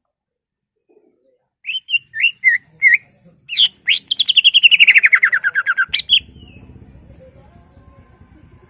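Greater green leafbird singing: a few short chirping notes, then a fast trill of about nine notes a second that falls steadily in pitch for about two seconds. A faint low hum follows near the end.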